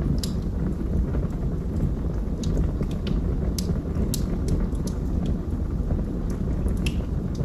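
Wood fire burning in a fireplace: a steady low rumble from the flames with irregular sharp crackles and pops.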